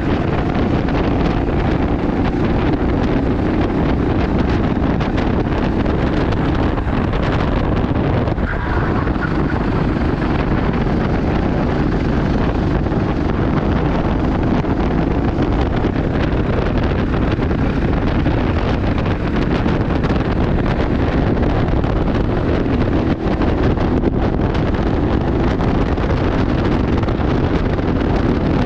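A racing kart's engine running steadily under heavy wind buffeting on the microphone.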